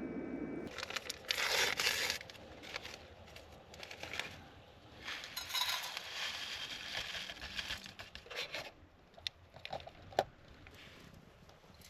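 Crinkling and rustling of packaging being handled and torn at, with a few sharp clicks near the end. A steady hum cuts off just under a second in.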